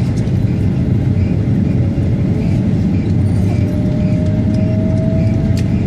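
Airliner cabin noise while taxiing after landing: a loud, steady low rumble, with a faint whine that slowly rises in pitch from about two seconds in.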